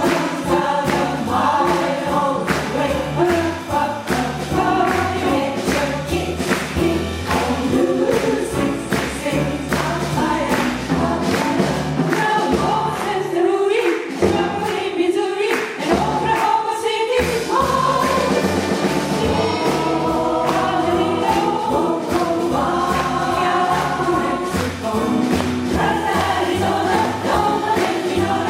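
Jazz chorus singing in harmony over a jazz rhythm section of piano, bass and drums. About halfway through, the bass and drums drop out for a few seconds while the voices carry on, then the band comes back in.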